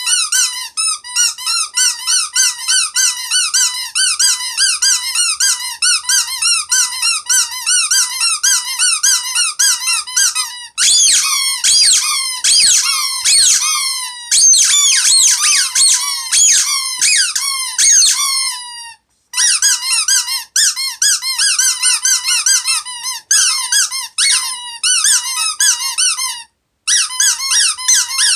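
Loud, high-pitched squeaks repeating several times a second, each a short rising-and-falling chirp. A stretch in the middle has quicker chirps that fall in pitch, and the sound breaks off briefly twice.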